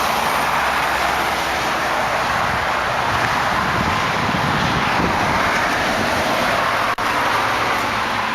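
Steady road traffic noise, with no distinct event standing out; it dips briefly about seven seconds in.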